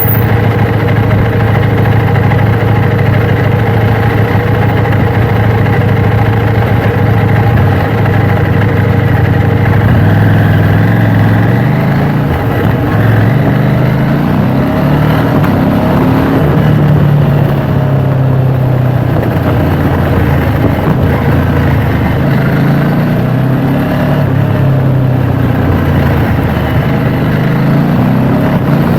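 KTM 790 Duke's parallel-twin engine heard from a bike-mounted camera. It runs steadily for about ten seconds, then its pitch rises and falls several times as the throttle is opened and closed.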